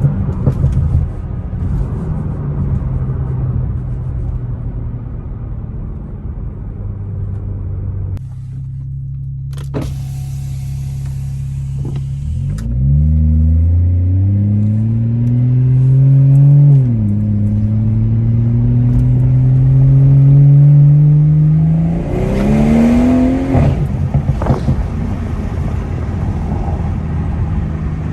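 BMW 340i's turbocharged inline-six through a straight-piped exhaust with the muffler and resonators deleted, accelerating hard. Partway through the pitch climbs steadily, drops suddenly at a gear change and climbs again, then rises and falls quickly once more near the end, followed by a few exhaust crackles.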